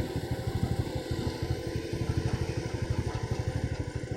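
Hitachi excavator's diesel engine running under load, a steady rapid throb.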